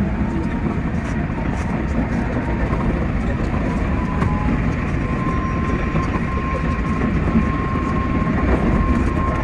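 Keikyu 600 series electric train running at speed, heard from inside the driver's cab: a steady rumble of wheels on rail with light clicking, and a thin steady whine that comes in about halfway through.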